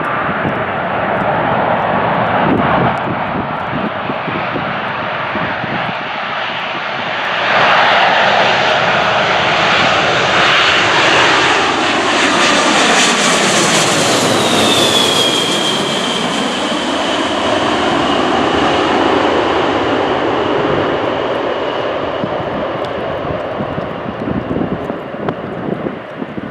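Jet airliner passing low overhead: the engine noise swells sharply, peaks with a whine that falls in pitch as the plane goes by, then slowly fades. Gusts of wind buffet the microphone.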